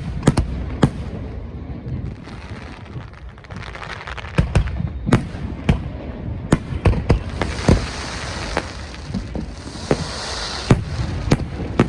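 Aerial fireworks going off: an irregular run of sharp bangs, coming thick and fast in the middle, with a hissing crackle building toward the end.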